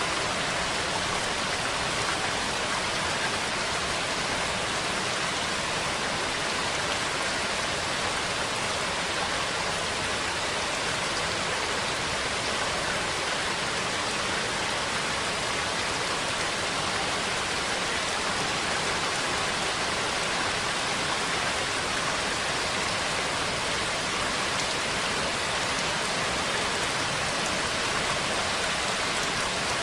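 Steady rain falling, an even, unbroken hiss with no thunder and no single drops standing out.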